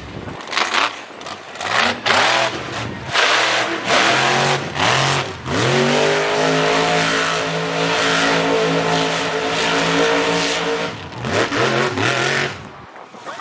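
Monster truck engine revving in short blips, then climbing and held at high revs for about five seconds before falling away near the end.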